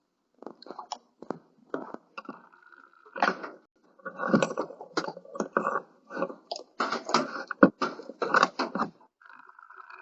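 A large dog chewing and crunching food, with irregular crisp crunches and bites.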